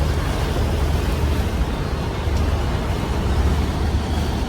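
Steady rumble of a river water-taxi's engine under way, mixed with wind noise on the microphone.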